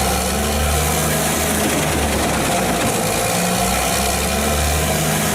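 Large forestry wood chipper running loudly, a deep engine drone under a dense, steady mechanical din, with the engine's pitch wavering slightly as the load changes.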